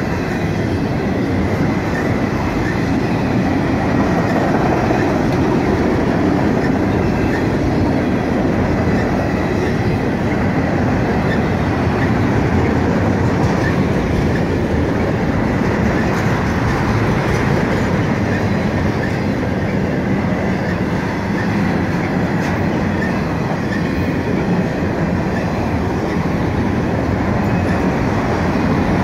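Freight train of multilevel autorack cars rolling past close by: a steady, unbroken noise of steel wheels running on the rails.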